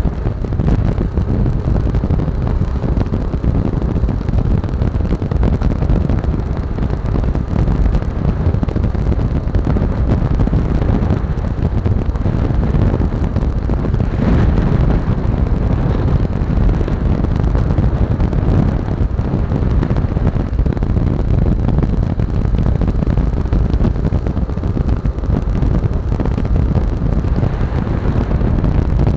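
Heavy wind buffeting on the microphone of a Yamaha Lexi scooter on the move, with the scooter's engine running underneath. The sound stays steady throughout.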